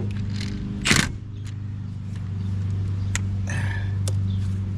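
Metal tools and brake parts clicking and clanking, with one louder clank about a second in and a brief scrape near the end, over a steady low hum.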